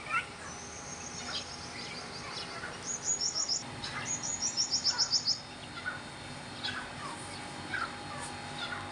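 Several birds chirping: repeated short falling chirps, with two rapid, high-pitched trills a few seconds in.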